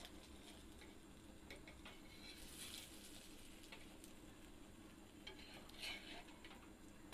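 Faint sizzling of batter-coated eggplant slices frying in oil on an iron tawa, with a metal spatula scraping and tapping the griddle a few times as the slices are turned, the loudest scrape about six seconds in.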